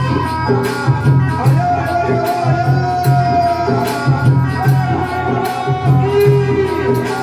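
Live Navratri devotional folk music: a steady drum beat and jingling hand percussion under a held, gliding melody line.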